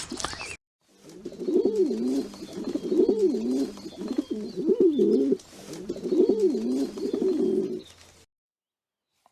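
A bird cooing in four low, repeated phrases, each rising and falling over about a second and a half. The calls start about a second in and stop near the end.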